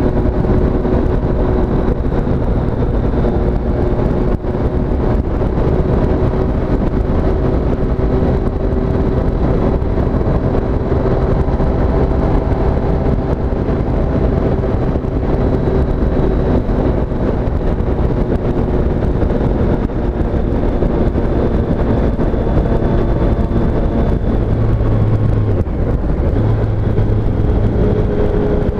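2017 Triumph Street Triple S motorcycle's 765 cc inline-three running at a fairly steady speed while being ridden, its engine pitch holding level and shifting slightly near the end, over steady wind and road noise.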